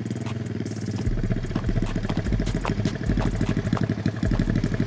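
Four-wheeler (ATV) engine running steadily, with a rapid, even putter.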